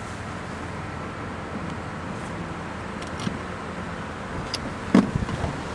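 Steady car and road noise with a low rumble, broken about five seconds in by a single sharp knock.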